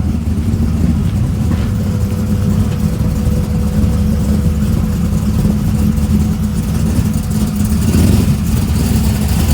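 Classic Holden car engine idling steadily, freshly cold-started.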